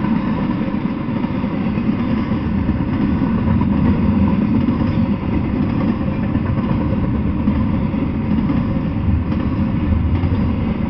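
Double-stack intermodal freight train rolling past: a loud, steady rumble of steel wheels on the rails.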